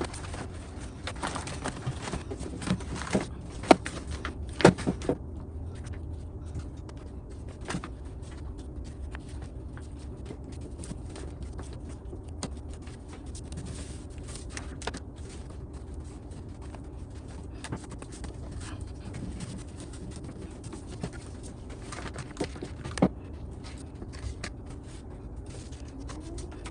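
Scattered clicks and light knocks from hand work on a car door, several in the first five seconds and a few more later, over a steady low hum.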